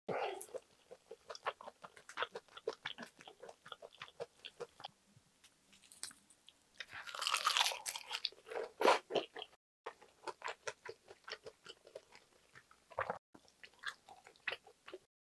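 Close-miked eating sounds: many small wet clicks of chewing and smacking on a mouthful of kimchi braise with pork belly, tofu and rice. About seven seconds in comes a brief burst of crisp crunching as a roasted seaweed (gim) wrap is bitten, followed by heavier chewing.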